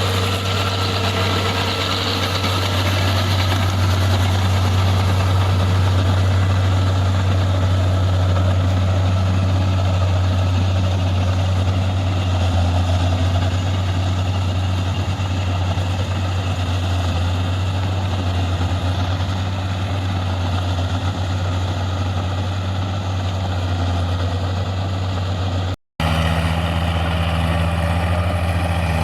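Tractor diesel engine running steadily at a low, even pitch. Near the end it cuts out for a split second and comes back with a slightly different tone.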